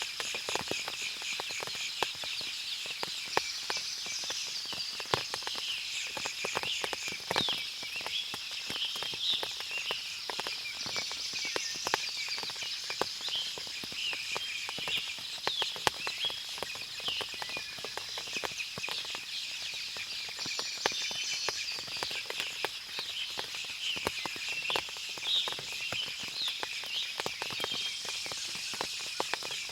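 Forest ambience after rain: a steady high insect drone under many birds chirping, with frequent sharp ticks of water dripping from the trees.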